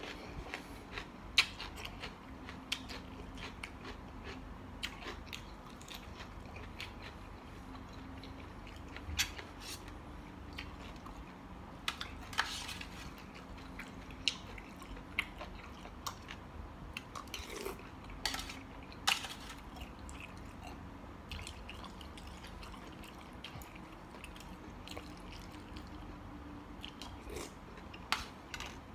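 A person chewing and biting a mixed seafood salad of squid and shrimp, with irregular short clicks and crunches.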